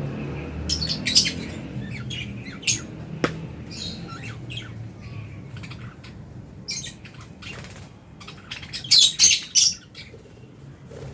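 Lovebirds in an aviary giving short, sharp, high-pitched chirps and squawks at irregular intervals, with a loud burst of several calls about nine seconds in.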